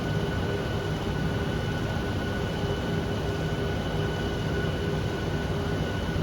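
Steady machinery hum and rushing air noise with several constant tones, unchanging throughout, like equipment and ventilation running in a testing room.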